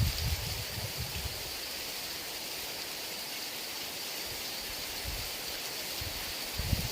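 Heavy rain falling steadily with wind, low gusts swelling in during the first second and again near the end.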